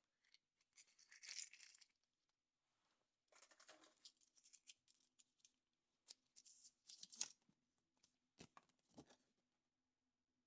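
Chocolate egg's foil wrapper being torn and crinkled by hand, in three short bursts of crackling, followed by a few light clicks near the end.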